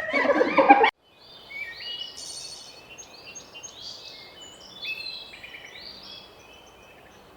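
Small birds chirping and singing in short, high whistled notes, many overlapping, over a faint steady hiss. They follow a loud pitched sound that cuts off abruptly about a second in.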